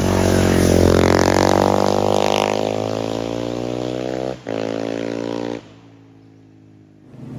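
A motor vehicle's engine passing at speed: the engine note climbs, then falls slowly as it goes by, with a sharp break about four seconds in like a gear change. It cuts off suddenly about a second later, leaving only faint background sound.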